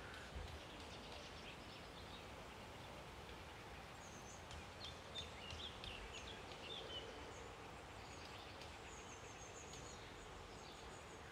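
Faint outdoor ambience with a few distant birds chirping and trilling, mostly between about four and ten seconds in.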